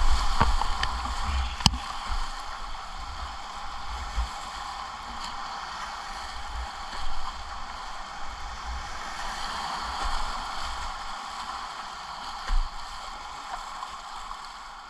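Whitewater rushing steadily around a kayak, with low buffeting on the microphone in the first couple of seconds and a single sharp knock a little under two seconds in.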